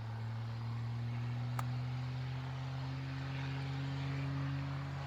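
A steady, low engine drone that rises slowly in pitch, with one sharp click about one and a half seconds in, which fits a golf club striking the ball on an approach shot.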